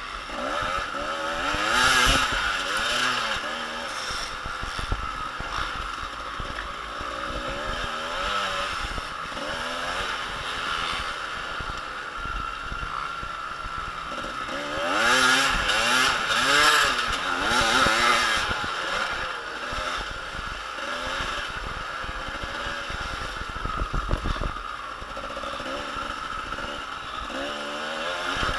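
Several motocross dirt bike engines revving up and down as the bikes race around the track, their pitches rising and falling over one another. The bikes are loudest about two seconds in and again around fifteen to eighteen seconds in, as they pass close by.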